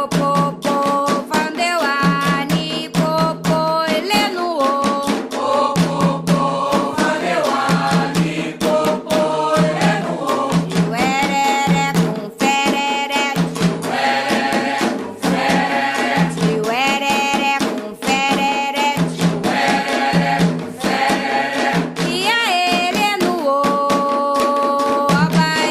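Candomblé Ketu ritual music: a group of voices singing a chant over a steady rhythm of hand drums and percussion.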